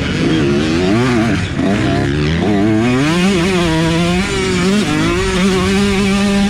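Motocross dirt bike engine revving hard, its pitch rising and falling repeatedly, then holding a steady high note in the last second or two.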